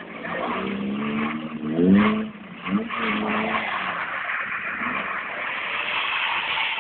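Car engine revving hard as the car drifts sideways on snow, its pitch climbing sharply about two seconds in and again briefly a moment later, over a steady hiss.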